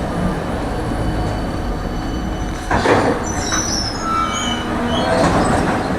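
Tram running on its rails with a steady rumble; about halfway through comes a louder clatter, then about a second of thin high wheel squeal.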